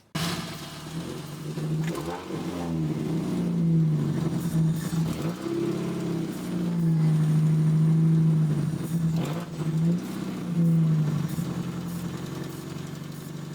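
1990 Mazda Miata's 1.6-litre inline-four running loud on starting fluid after a no-start, revving up and dropping back several times, then settling toward a steadier idle near the end.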